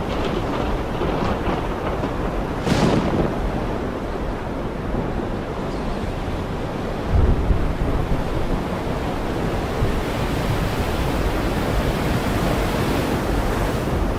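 Heavy rain falling steadily, with a sudden louder gust of noise about three seconds in and a low rumble about seven seconds in.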